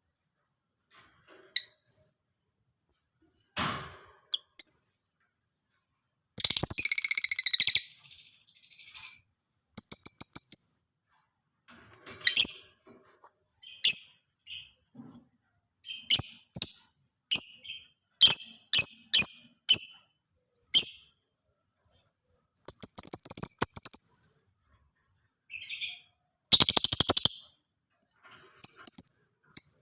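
A lovebird calling: a string of short, sharp, high-pitched chirps with brief pauses between them, broken by a few longer runs of rapid chattering.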